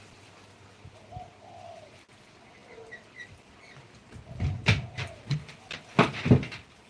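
A dove or pigeon cooing softly, low hooting notes about a second in and again later. Several loud, sharp knocks or clunks near the end, louder than the cooing.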